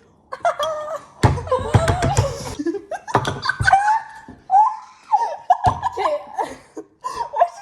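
Two young women laughing and giggling in fits. There are a few sharp knocks about a second in.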